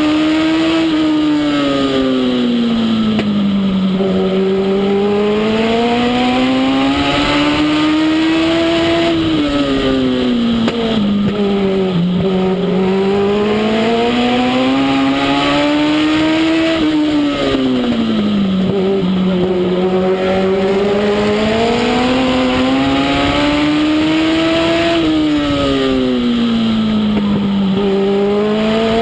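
Legend race car's Yamaha four-cylinder motorcycle engine running hard, its pitch rising and falling smoothly about every eight seconds: the revs climb down each straight and drop for each turn as it laps a short oval.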